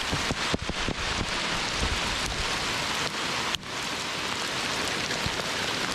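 A heavy hailstorm with rain: hailstones and rain coming down hard in a dense, steady hiss, peppered with many small, sharp hits. The level dips briefly about three and a half seconds in.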